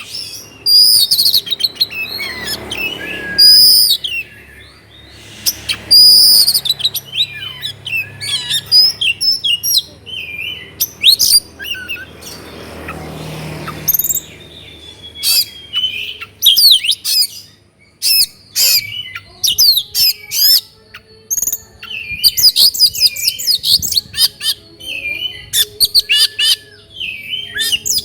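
Oriental magpie-robin (kacer) in full song: a long, varied run of loud whistles, slurred notes and rapid trills, broken by short pauses.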